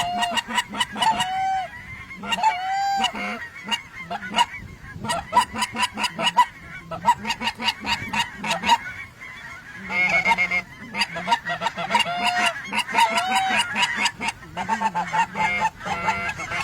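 A flock of geese honking, many short calls overlapping in a continuous chorus.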